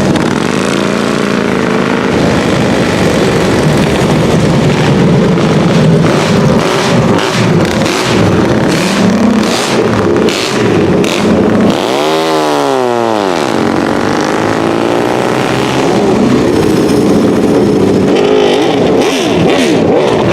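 Racing car engine running hard at high revs. About twelve seconds in, its pitch sweeps up and then back down as it passes close by.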